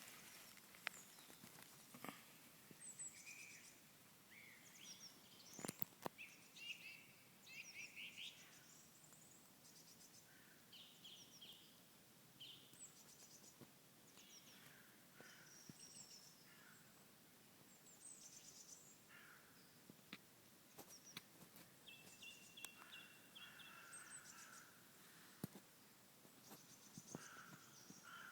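Birds chirping and calling faintly in short high calls, scattered throughout over a steady background hiss, with a few sharp clicks.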